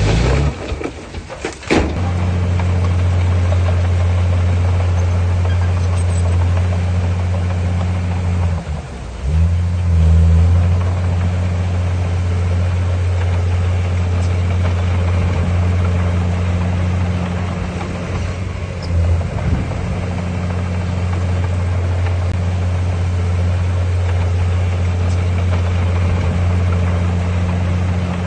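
Heavy diesel engine of earthmoving machinery running with a steady deep drone, dipping briefly and then rising again about nine to ten seconds in; a sharp click near the start.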